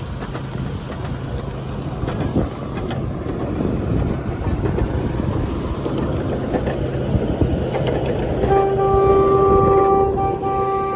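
Miniature ride-on train running on small-gauge track, with a steady low hum and wheels rattling and clicking over the rail joints. About three-quarters of the way through, its horn sounds one steady note and holds it, with a brief dip.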